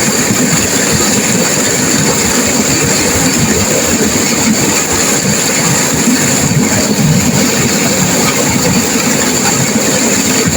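Turbulent river water rushing and crashing, a loud, steady noise that never lets up.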